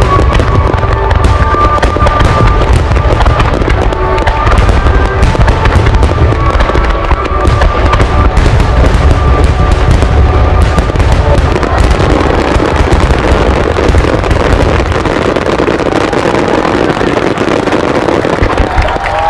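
Large aerial fireworks bursting in rapid succession: a continuous deep rumble of booms with crackling, over music from loudspeakers. About twelve seconds in, the booms thin and a dense crackle takes over.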